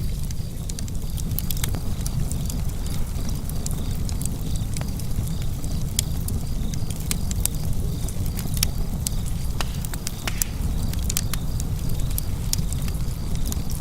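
Wood fire burning in a fireplace with a steady low rumble and frequent sharp, irregular crackles and pops.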